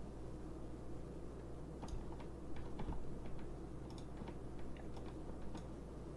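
Faint, irregular clicks and taps of a computer keyboard and mouse during image-editing work, over a steady low hum.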